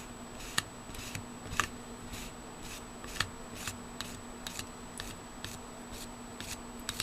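Thermal paste being worked onto a CPU heat spreader with a small spreading tool: a steady run of short, light clicking scrapes, about two a second, over a faint steady hum.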